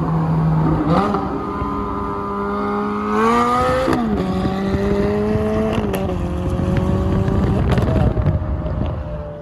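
Ferrari V8 engine accelerating hard through the gears. Its note climbs steadily, then drops sharply at upshifts about four and six seconds in, and climbs again.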